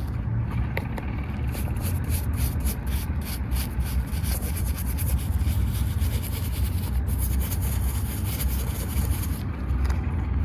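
Scrubbing dried mud off a miniature toy car: quick, rough rubbing and scraping strokes that run together into a near-continuous scrub through the middle, over a steady low rumble.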